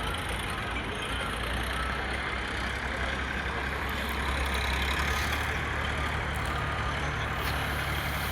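Tractor engine running steadily, a low hum that gets somewhat louder about four seconds in.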